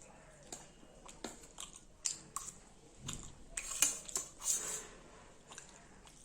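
A person eating instant ramen noodles close to the microphone: chewing with wet mouth clicks and smacks, and louder noisy stretches about three and a half to five seconds in.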